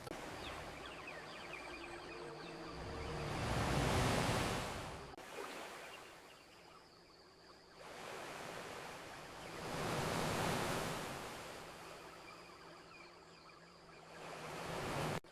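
Ocean waves washing onto a beach, surging three times: about 4 seconds in, about 10 seconds in, and near the end, where the last surge cuts off abruptly.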